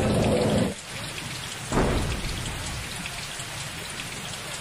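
Heavy rain pouring onto a waterlogged street, a steady hiss of falling water. It is loudest and deepest for the first moment, drops off suddenly under a second in, and surges again briefly just before two seconds in before settling into a steadier, quieter downpour.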